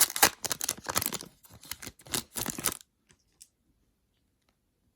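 Trading card pack wrapper and cards being handled: scratchy rustling and tearing in quick bursts for about three seconds, then it stops, leaving a couple of faint ticks.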